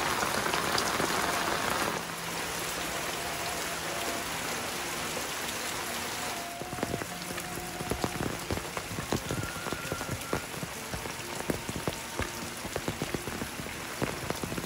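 Steady rain falling, with heavier drops splashing and dripping distinctly from about six seconds in.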